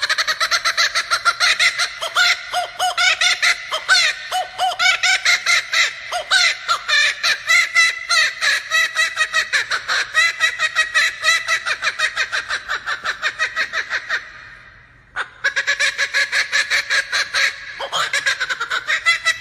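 Male laughing kookaburra giving its laughing call: a long run of rapid hooting notes that rise and fall in pitch. It breaks off briefly about fourteen seconds in, then starts up again.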